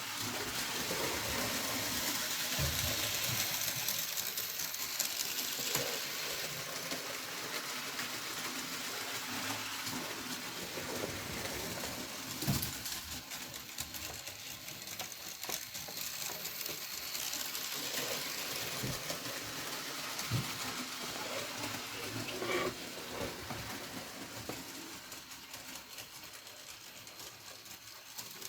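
Model railway train running along the track: a steady hissing, rolling noise with a few sharp clicks, fading slightly near the end.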